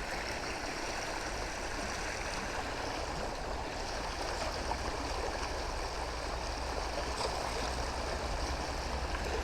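A stream running steadily, a constant rush of flowing water.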